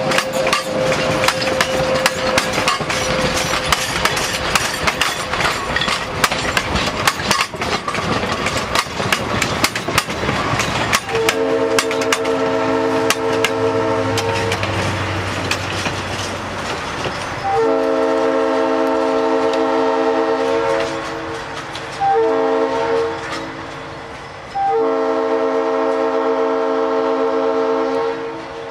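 A narrow-gauge train running with dense clicking and rattling from the wheels and rail joints. About eleven seconds in, the diesel locomotive's horn sounds a chord in four blasts, long, long, short, long: the standard grade-crossing signal.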